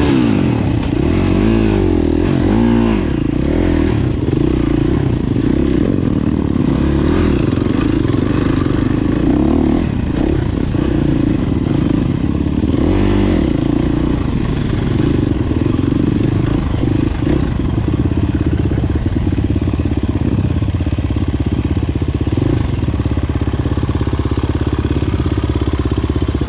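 Dirt bike engine running as it is ridden, the revs rising and falling sharply in the first few seconds, then running steadier with smaller rises and dips.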